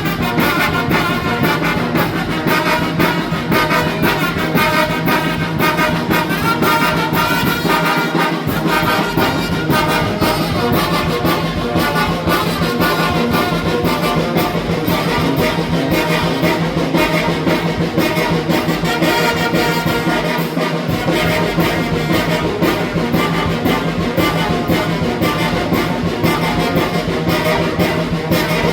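Mexican brass band playing a huapango: trumpets and trombones over a steady, even beat.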